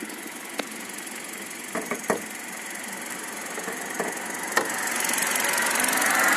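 Car engine running with an extraneous chattering noise and a few sharp clicks; the noise grows louder over the last couple of seconds. The chattering is new to the owner, a sign of some developing fault in the engine.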